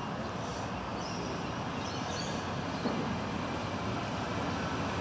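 Rumble of an approaching electric passenger train, still out of sight down the line, slowly growing louder.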